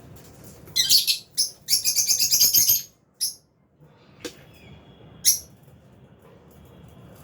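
Lovebirds chirping: a few loud, high-pitched chirps about a second in, then a rapid chattering run of chirps for about a second, followed by a few single chirps.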